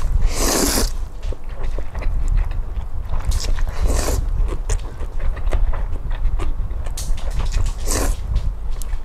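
Close-up chewing and biting with many small clicks, broken by short noisy breathy bursts: one about half a second in, two more a little past three and four seconds in, and two near seven and eight seconds, over a steady low rumble.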